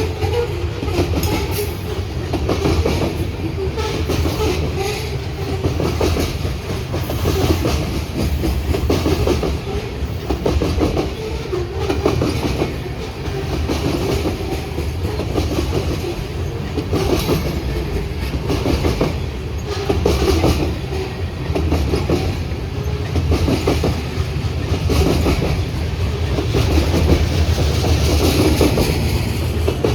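A train rolling past close by: a steady rumble with wheels clicking over the rail joints throughout.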